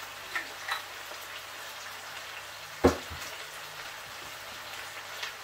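Chicken frying in a pan on the stove, a faint steady crackle. A few light clicks come in the first second, and one sharp knock about halfway through.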